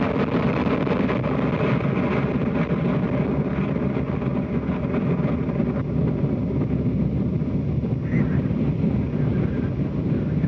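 Soyuz rocket's first-stage core engine and four strap-on boosters running in ascent, a steady deep roar from the ground about 40 seconds into the flight.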